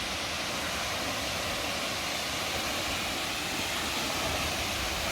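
Steady, even rush of water falling at Gartmore Falls, a waterfall.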